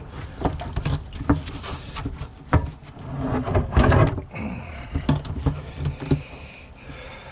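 Irregular knocks, clicks and scraping as a plastic snap jacket is handled and fitted around a dock piling, busiest about halfway through.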